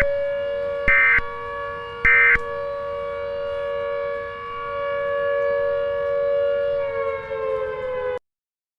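Civil defense siren sounding a steady multi-tone wail, with three short data-tone blips about a second apart over the first couple of seconds, the pattern of an EAS end-of-message code. Near the end the siren's pitch sags slightly, then it cuts off abruptly.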